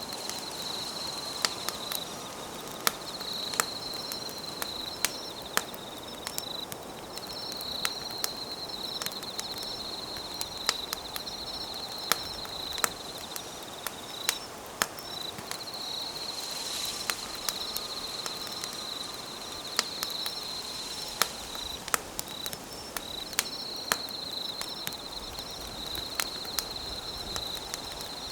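Campfire crackling with sharp pops every second or so, over insects trilling in long, high, steady phrases with brief breaks.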